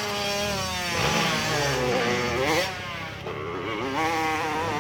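Competition motorcycle engine revving hard on a hill climb, its pitch swinging up and down again and again as the throttle is worked, loudest over the first half.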